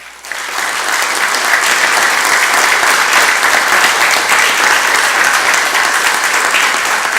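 Audience applauding. The applause builds up over the first second and then holds steady.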